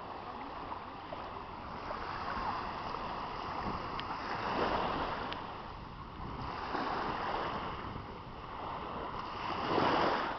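Water rushing and splashing in swells every two to three seconds, the loudest near the end.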